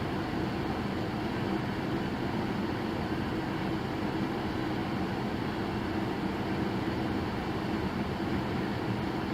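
Steady hum and road noise of a moving vehicle, even in level with no sudden sounds.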